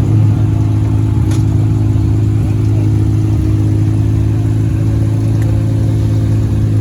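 Vehicle engine running at a steady speed, a constant low drone with no change in pitch.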